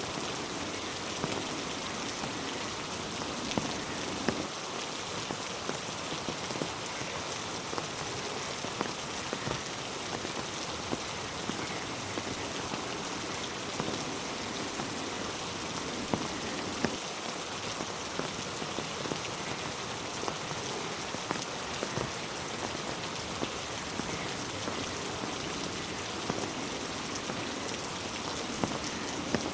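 Steady rain falling, with the odd louder drop tapping sharply here and there.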